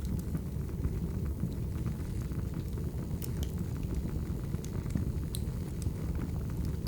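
Firewood burning: a steady low rumble of the fire with sharp crackles and pops scattered through it, a few louder than the rest.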